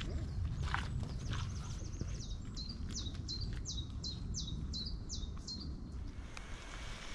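A songbird singing: a quick high trill, then a run of about seven sharp whistled notes, each falling in pitch, roughly three a second, over a low background rumble.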